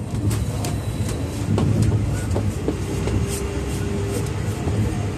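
Running noise inside a JR Hokkaido 789 series electric limited express: a steady low rumble from the wheels and bogies on the rails, with scattered clicks and knocks. A brief faint steady tone rises above it about three seconds in.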